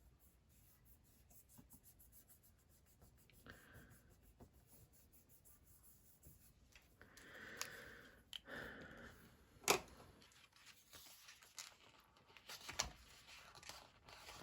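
Faint paper handling: soft rustles and scratches of stickers and planner pages being worked, with a few light taps.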